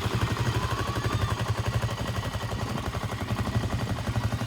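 ATV engine idling steadily in gear-ready state, a fast, even pulse of firing strokes with no revving.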